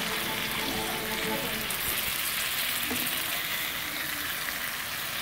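Whole prawns frying in oil and sauce in a wok with a steady sizzle, turned slowly with a metal spatula.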